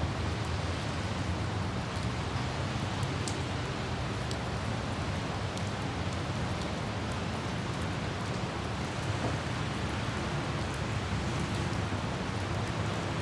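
Steady light rain over a low, even rumble of vehicle and road noise, with a few faint droplet ticks.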